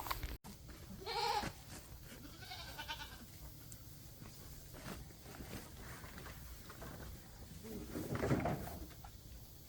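Goats bleating in short calls, one about a second in and another near three seconds, with a louder, lower sound near the end.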